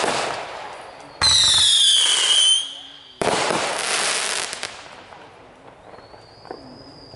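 Backyard consumer fireworks going off in quick succession: three sudden loud blasts about two seconds apart, the middle one with shrill whistles falling in pitch, each fading into crackling. A faint high whistle is heard near the end.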